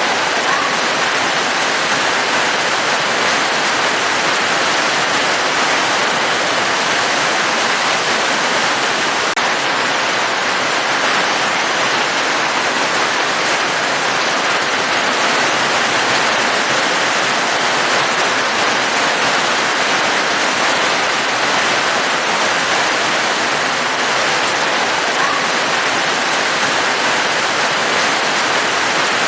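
Steady rain: an even, continuous hiss of falling water with no single drops or changes standing out.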